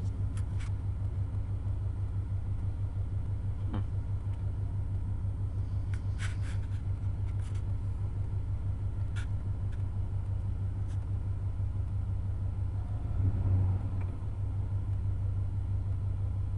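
1995 Chevy Cheyenne C2500's 350 (5.7 L) throttle-body-injected V8 idling steadily with an even low pulse as it warms up after a cold start. Its loudness swells briefly about three-quarters of the way through.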